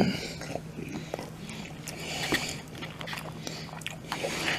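A person chewing food close to the microphone, with scattered small mouth clicks over a faint steady hum.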